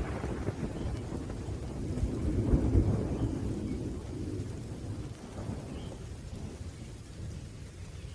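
Thunder rumbling over steady rain, swelling about two and a half seconds in and then slowly dying away.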